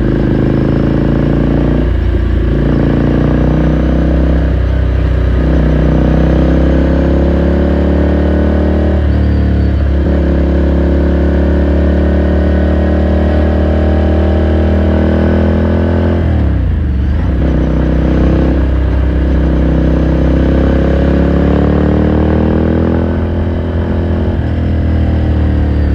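Ducati Scrambler Sixty2's 399 cc air-cooled L-twin running under way, its pitch climbing slowly in stretches broken by several gear changes, with one deeper drop and pick-up about two-thirds of the way through.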